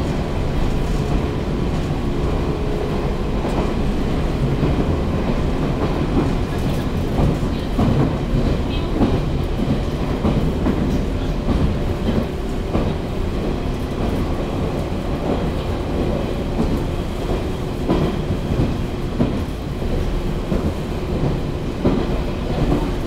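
Cabin noise inside a moving JNR-era electric local train, which the uploader takes for a 413 series: a steady rumble of the running gear, with the clickety-clack of wheels over rail joints recurring.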